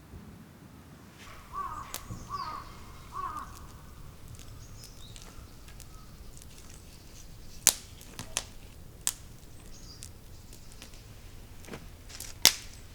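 A bird calls three times in quick succession, then several sharp snaps or clicks ring out, spaced a second or so apart.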